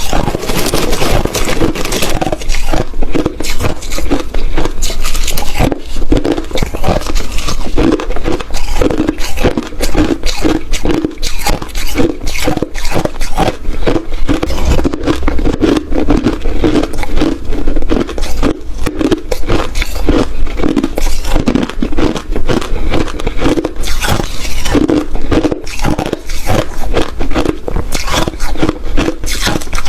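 Ice being chewed: a dense, continuous run of crunching and crackling with no pause.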